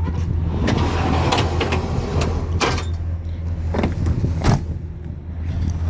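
A steady low hum inside a 2004 Chevrolet Avalanche's cabin, with about six sharp clicks and knocks as interior fittings are handled.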